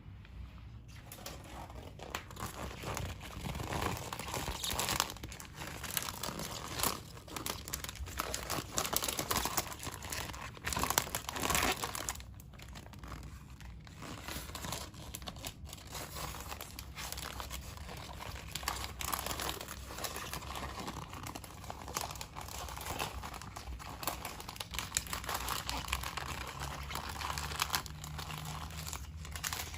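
Thin plastic of a foot peel mask crinkling and rustling as it is handled, in irregular, continuous crackles that are busiest in the first half.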